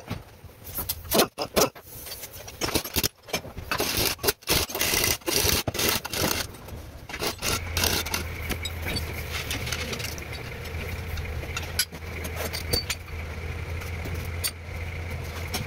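Clicks and scraping for the first several seconds, then the Toyota Corolla EE100's engine catches and runs at a steady idle.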